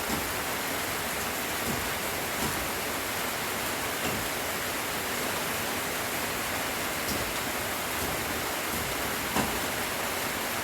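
Steady light rain falling, an even hiss with a few sharper ticks now and then.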